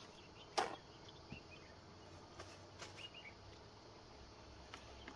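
Brief bird chirps against a quiet outdoor background, with one sharp clack about half a second in and a few fainter clicks after it.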